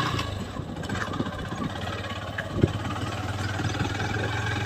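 Motorcycle engine running steadily at a low, even hum, with a single sharp knock about two and a half seconds in.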